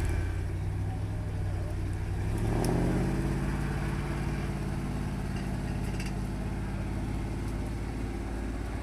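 ZIL-131 army truck's V8 petrol engine running under load, rising in pitch about two and a half seconds in as it revs up, then holding a steady note.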